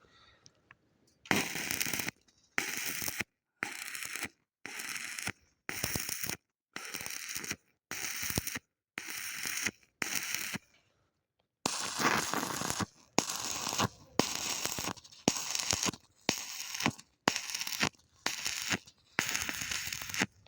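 Arc welding with a stick electrode: the arc crackles in a string of short bursts of half a second to a second each, broken by brief silences. The bursts come closer together in the second half.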